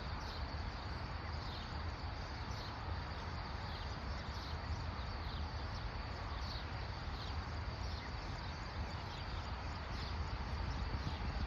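Outdoor rural ambience: a steady low rumble and hiss, with short high chirps repeating every half second or so.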